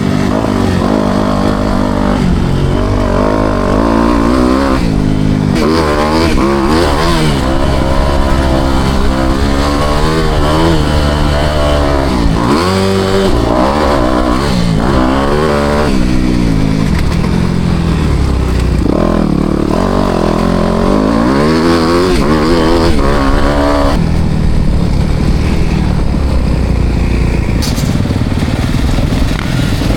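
Four-stroke motocross bike engine running hard around a track, its pitch rising again and again as it accelerates and dropping as the throttle is rolled off or it shifts. For the last several seconds the rising pitch gives way to a rougher, steadier engine noise.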